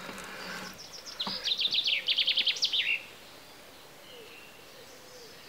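A songbird sings one quick phrase of rapid, repeated falling notes, about a second and a half long, ending in a short flourish. After it, faint bird calls are heard.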